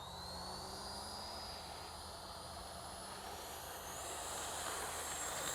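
64mm electric ducted fan of an FMS Futura RC sport jet whining, its pitch rising gradually and stepping higher near the end.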